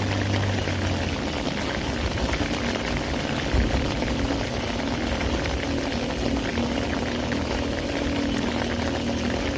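Steady hiss of rain and running water, with a vehicle engine humming faintly underneath and a single dull thump about three and a half seconds in.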